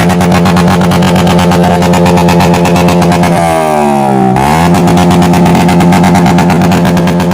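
Motorcycle engine held at high revs through a loud aftermarket racing exhaust. The revs sag about three and a half seconds in, then are snapped back up and held again.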